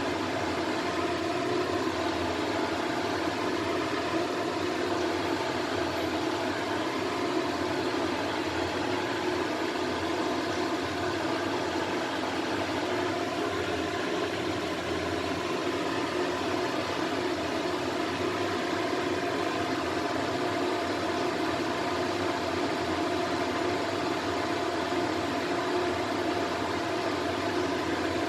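Steady, unchanging whirring hum of a fan motor, with a low steady drone under it.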